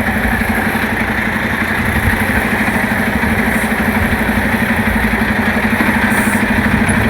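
Semi truck's diesel engine running steadily at low speed with an even, rapid pulse while the tractor-trailer reverses slowly into a loading dock.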